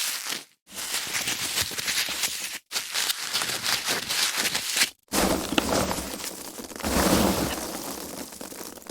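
Foam packaging being handled: rubbing, squeaking and crinkling in uneven stretches broken by brief dead stops, fuller and louder from about halfway through.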